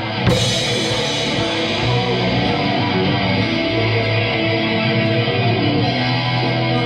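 Rock band rehearsal: a distorted electric guitar holding chords over the drum kit, with a cymbal crash just after the start. The playing stops abruptly near the end.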